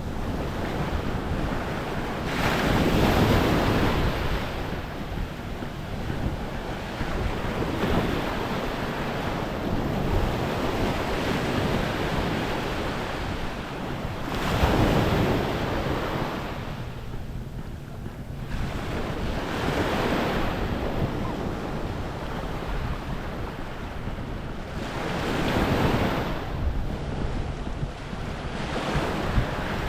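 Waves washing up on a beach shore, swelling and falling back every several seconds, with wind rumbling on the microphone throughout.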